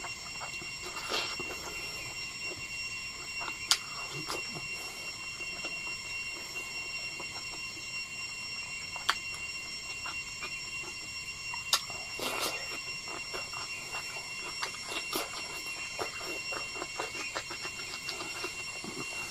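Close-up chewing and mouth sounds of a man eating rice and boiled bamboo shoots by hand, with three sharp clicks spread through, over a steady high-pitched whine of several tones.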